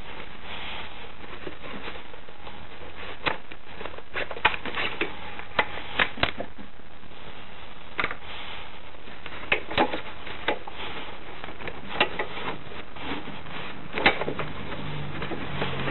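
Irregular sharp metallic clicks and knocks of hand tools on a moped's engine and frame parts, over a steady hiss. The clicks come in two clusters, one around the first half and one in the second half.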